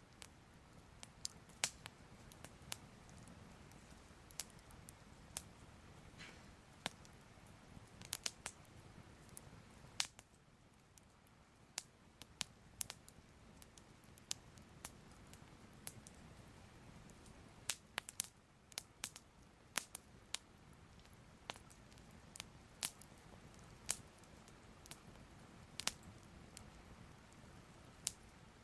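Soft fire crackling: irregular sharp pops and snaps, sometimes in quick clusters, over a low steady rush.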